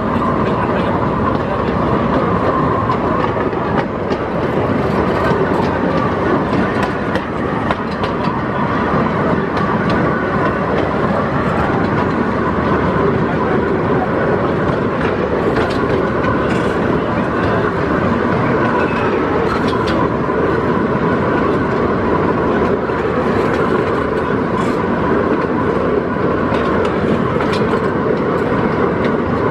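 Miniature amusement-park train running steadily along its track, heard from a passenger car: an even rumble of the locomotive and wheels, with occasional clicks as the wheels run over the rails.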